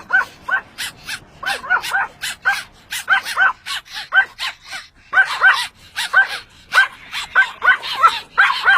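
Pomeranian barking: a rapid, almost unbroken run of short, high-pitched yaps, about three or four a second.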